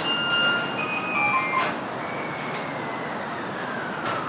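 A short electronic chime of steady stepped notes, then one slowly falling whine over steady train and platform noise at a Shinkansen station, with a few faint clicks.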